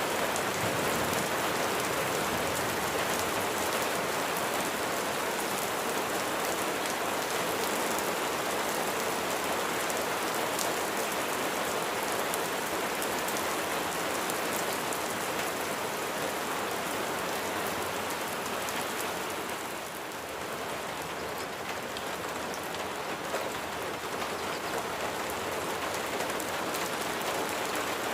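Steady rain falling, a dense even hiss with individual drop hits ticking through it, easing slightly for a moment about two-thirds of the way through.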